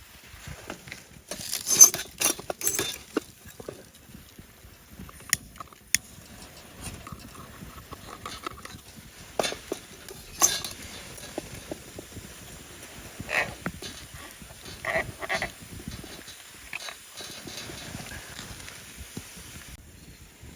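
Irregular knocks, clicks and clatter of camping gear being handled, a few of them short ringing clinks, with the loudest cluster of knocks in the first few seconds.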